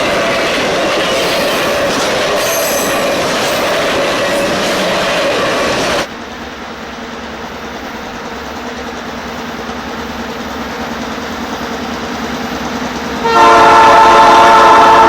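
Royal Canadian Pacific passenger train running, steady rail and engine noise. About six seconds in the sound drops abruptly to a quieter, slowly building train sound. Near the end the locomotive's air horn blows a loud chord of several notes.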